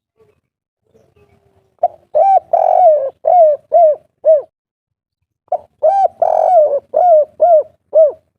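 Spotted dove (derkuku, 'kuk 3' song type) cooing: two phrases, each a quick run of about seven short, arched coos, the first about two seconds in and the second about five and a half seconds in.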